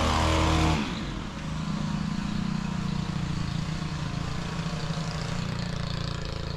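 An engine running steadily; the louder engine sound stops abruptly under a second in, leaving a lower, steady engine hum.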